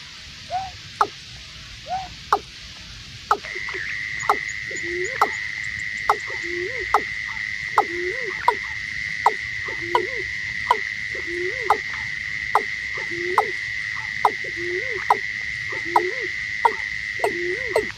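Watercock calling: a steady series of short, hollow, low notes, one roughly every half to three-quarters of a second. A steady high-pitched tone joins about three and a half seconds in and holds.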